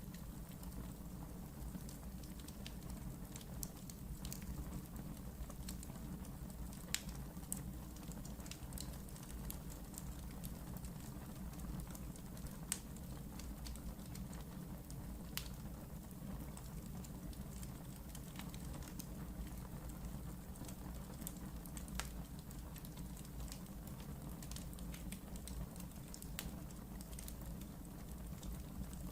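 Wood fire burning in a fireplace with a steady low rumble and soft hiss, crackling with scattered sharp pops, a few louder ones standing out.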